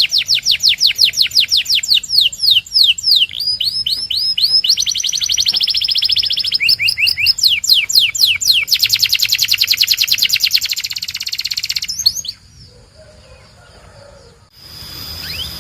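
Domestic canary singing a run of rapid trills: series of swept whistled notes repeated many times a second, changing from one series to the next, with a very fast trill shortly before the song stops about twelve seconds in. After a brief lull, fainter singing with a steady high tone comes back near the end.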